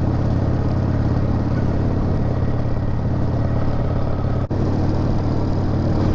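Harley-Davidson V-twin motorcycle engine running steadily under way, a low even pulsing drone. It cuts out briefly about four and a half seconds in.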